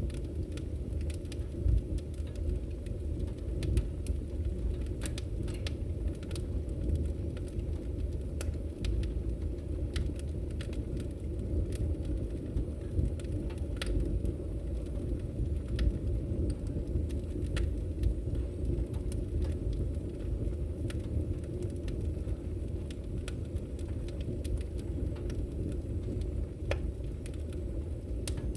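Campfire burning: a steady low rumble of flames with frequent, irregular sharp crackles and pops.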